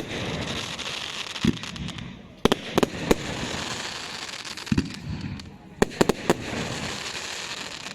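Fireworks display: about ten sharp bangs, several coming in quick clusters of two or three, over a steady hiss.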